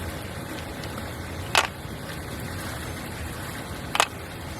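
Two sharp clacks of mahjong tiles set down on the table, about two and a half seconds apart, over a steady low background rumble.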